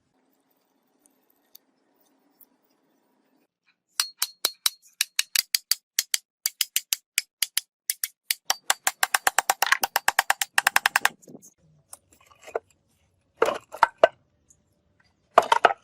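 A rapid run of sharp clicks starting about four seconds in and coming faster over several seconds, then two short, rough bursts near the end.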